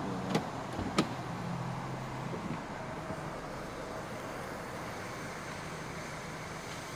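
Car running slowly with steady engine and road noise, with two sharp clicks about half a second and a second in.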